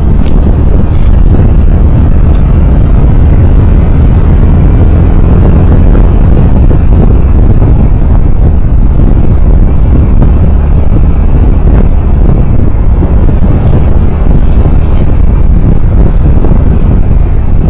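Loud, steady low rumble of a vehicle travelling on the road, with road and wind noise dominating the microphone.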